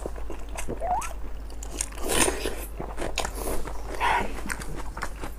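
Close-miked wet biting, chewing and lip-smacking of two people eating saucy spicy braised sheep offal, with irregular clicks and a few louder slurping bursts.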